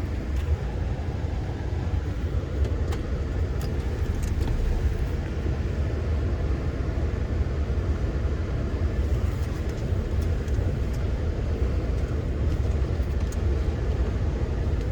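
Chevy Silverado pickup's engine running with a steady low rumble, heard from inside the cab.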